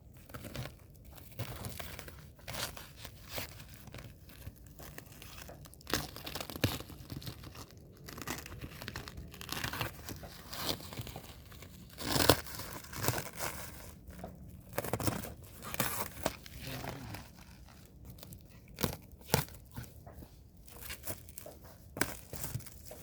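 Cardboard shipping box being opened by hand: packing tape tearing and cardboard and packing material crinkling and scraping in irregular bursts, with occasional sharp knocks, the loudest about twelve seconds in.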